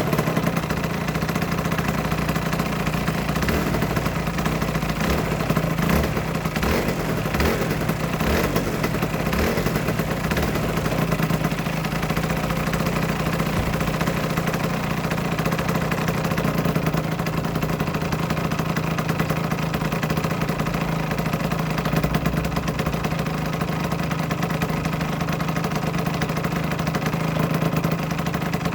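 Aprilia RS125's single-cylinder two-stroke engine idling steadily, with some light clicking a few seconds in.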